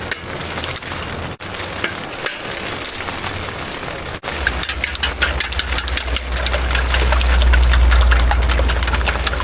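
Rain pattering on tent fabric, a dense run of small ticks over a steady hiss. About four seconds in, a low steady rumble joins it and grows louder.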